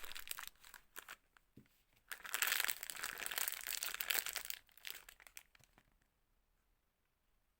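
Soap packaging being crinkled and torn open by hand. Scattered crackles come first, then a dense crinkling rush about two seconds in that lasts a couple of seconds and thins out to a few ticks.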